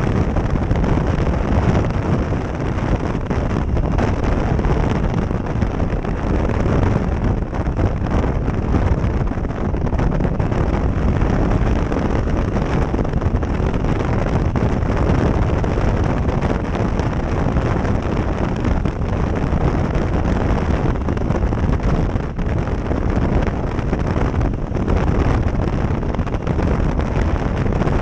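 Loud, steady wind buffeting the microphone of a GoPro Session action camera on a motorcycle ridden at road speed. It is a rushing roar strongest in the low end, with no clear engine note standing out.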